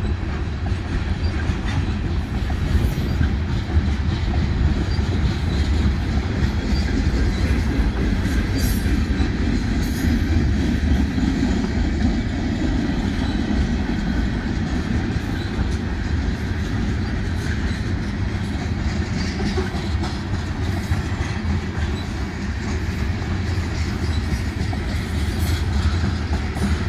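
Union Pacific manifest freight train's tank cars and boxcars rolling past, steel wheels running steadily on the rails.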